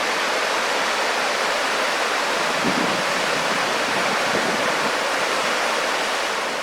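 Rain-swollen creek runoff below a waterfall, rushing over rocks in a steady, even roar of water, running high after days of heavy rain.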